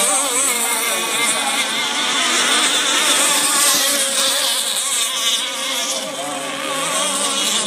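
Several racing boat engines running at speed, a high buzzing whine whose overlapping pitches waver up and down.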